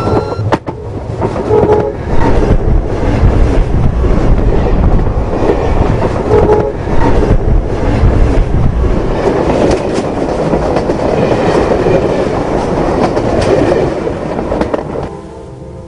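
Train passing directly over a camera set between the rails: a loud, heavy rumble with the clickety-clack of wheels over the rails. It drops away abruptly about fifteen seconds in.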